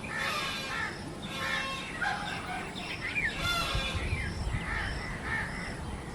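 Birds calling: a few harsh, caw-like calls with shorter whistled chirps between them.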